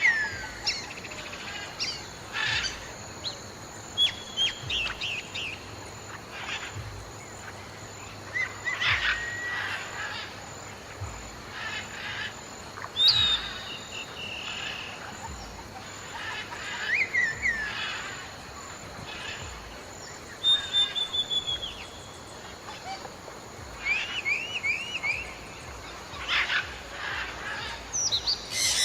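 Wild birds calling outdoors: scattered short chirps, falling whistled notes and brief trills, one after another, over a steady background hiss.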